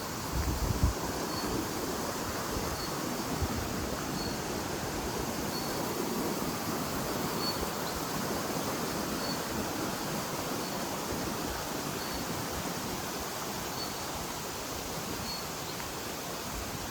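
Steady rushing water, an even hiss with no change through the stretch. A faint short high chirp repeats about every second and a half over it.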